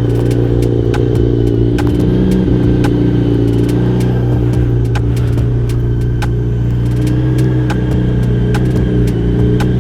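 Sport motorcycle engine idling steadily, with sharp clicks now and then over it.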